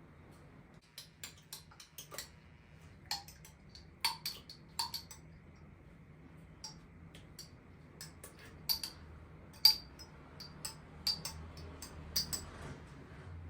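Irregular light clicks and clinks of kitchen items being handled, a couple of dozen sharp taps with the loudest near the middle, over a faint steady hum.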